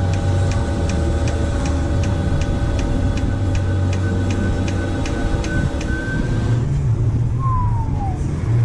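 Wheel-polishing machine running with a steady hum and a regular tick about three times a second, then stopping about six and a half seconds in, leaving a low background hum and a short falling squeal near the end.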